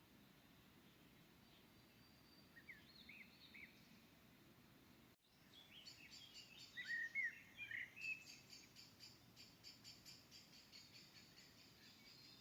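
Faint songbirds chirping. About five seconds in, the birdsong gets louder and is joined by a fast, high, repeating trill.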